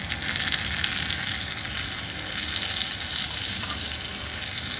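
Chopped tomatoes sizzling in hot oil with onions in a clay pot over a wood fire, a steady crackling sizzle that picks up just after the start. Near the end a spoon stirs the pot.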